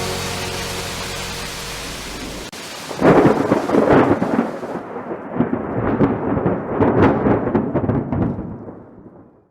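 Steady rain hiss fading out, then about three seconds in a sudden loud thunderclap that rumbles and crackles for several seconds and dies away near the end.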